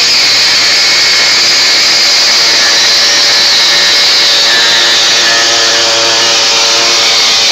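Air-powered cutting tool running steadily at full speed, a loud hiss with a steady whine and no break.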